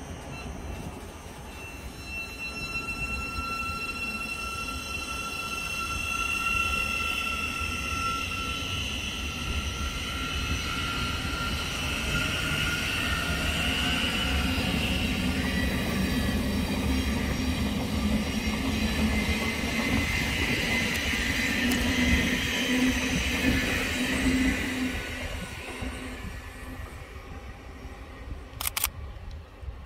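A train running through a railway station: a steady high whine for the first ten seconds or so, then louder through the middle with a low hum, and dying away over the last few seconds. A brief sharp click comes near the end.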